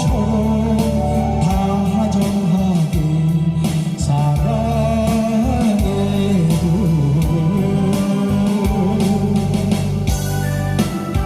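A Korean pop song sung over an instrumental backing track. Near the end the voice stops and steady keyboard or organ tones carry on.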